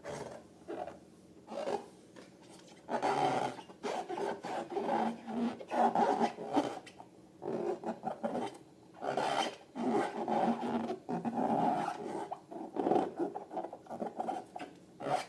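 Hands working rubber balloons and slime: irregular rubbing and squishing strokes, a few short ones at first, then nearly continuous from about three seconds in.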